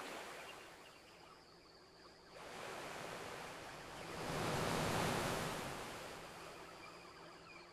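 Gentle ocean waves washing onto a beach: a quiet lull, then one wave comes in about two and a half seconds in, swells to its loudest near the middle and slowly falls away.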